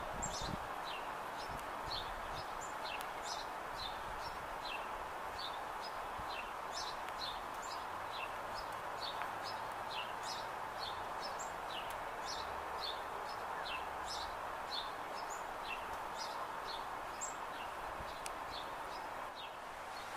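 Small birds chirping over and over in short, high notes that slide downward, a couple of chirps a second, over a steady outdoor background hiss.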